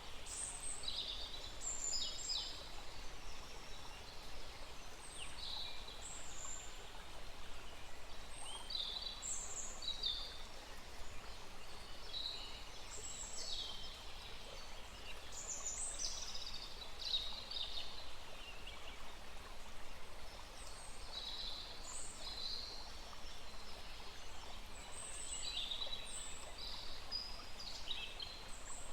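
Small forest birds chirping in many short, high notes, one after another, over the steady rush of a small stream.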